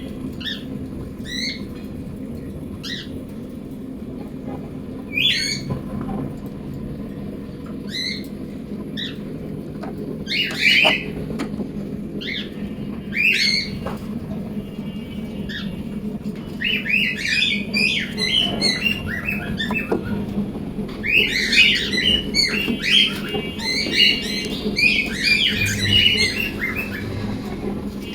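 Cockatiels squawking and calling: short scattered calls at first, then from about two-thirds of the way through a dense, overlapping run of chattering calls. A steady low hum runs underneath.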